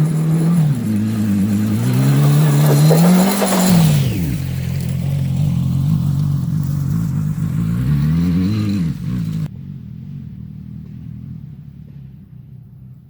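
Small gasoline engine of a homemade mini monster truck buggy, revving up and down under load. About nine and a half seconds in the sound drops suddenly to a fainter low hum that fades away.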